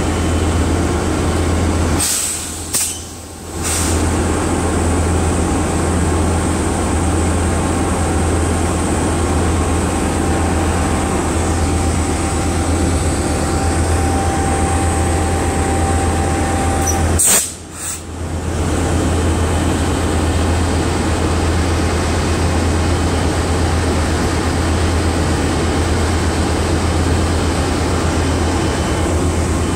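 Diesel passenger train locomotive running beside the platform: a steady low rumble with a broad hiss over it. The sound drops away briefly twice, about two seconds in and about seventeen seconds in.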